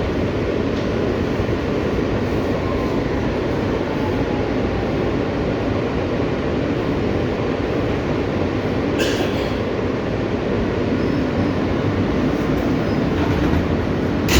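R160B Siemens subway car running on the track, heard from inside the car: a steady, loud rumble of wheels and running gear. There is a brief sharp high-pitched noise about nine seconds in and another near the end.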